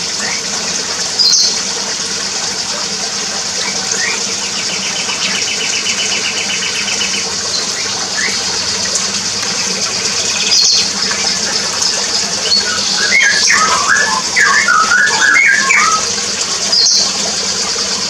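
Small aviary birds calling over a steady hiss: a few short high chirps, a fast even trill about five seconds in, and a burst of varied chirping notes from about thirteen to sixteen seconds.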